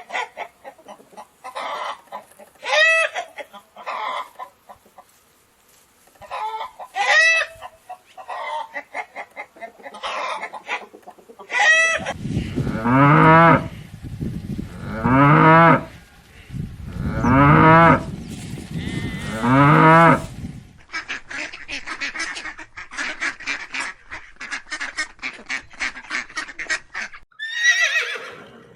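A sequence of farm-animal calls: short honking calls of geese or ducks, then a cow mooing four long times from about twelve seconds in, then a run of rapid chattering calls. A horse's whinny begins near the end.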